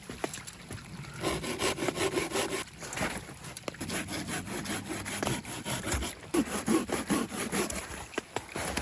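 Hand saw cutting through wood, a run of back-and-forth rasping strokes with a short pause about two and a half seconds in.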